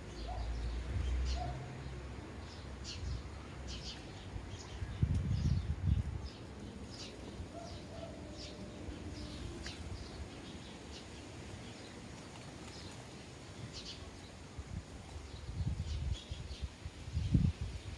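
Sparrows chirping at a bird feeder: many short, high chirps scattered throughout. Low rumbles come about five seconds in and again near the end.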